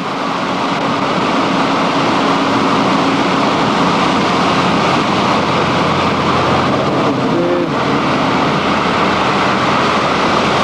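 Flooded creek carrying heavy debris, rushing water making a loud, steady, unbroken noise. A faint low hum runs under it for the first half.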